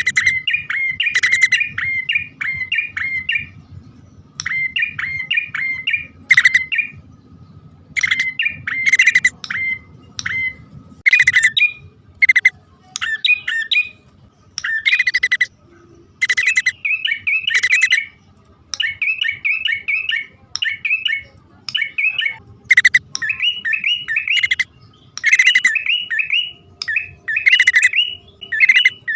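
Prinias (prenjak), male and female, calling as a bird-trapping lure: phrases of rapid, harsh chirping notes, each a second or two long, repeated with short pauses between them.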